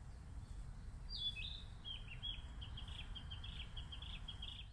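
A small songbird singing a fast run of short, high, falling notes, several a second, starting about a second in, over a low steady rumble.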